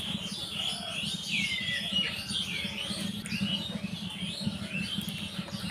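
Birds chirping in the background, many short gliding calls, over a steady low hum.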